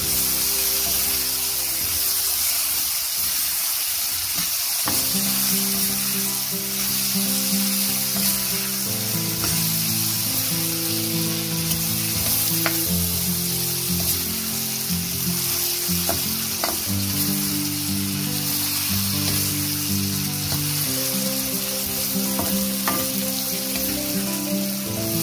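Diced potatoes sizzling steadily in hot oil in a black wok as they are fried with spices. A steel ladle stirs them, with a few sharp clicks against the pan.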